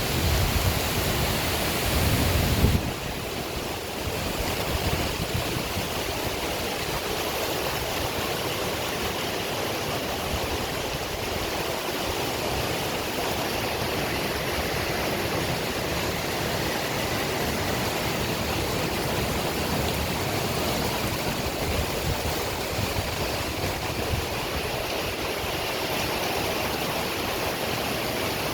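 Heavy rain pouring down steadily. For the first three seconds a louder low rumble sits under it, then cuts off suddenly.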